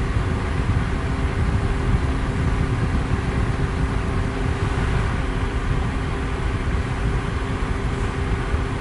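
Electric fan running steadily: a constant deep rushing of air with a faint steady motor hum.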